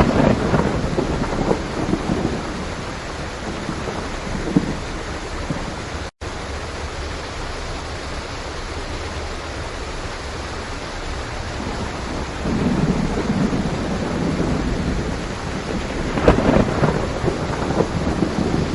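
Steady heavy rain with rolling thunder: a low rumble near the start, and two more swelling rumbles in the second half. The sound cuts out for an instant about six seconds in.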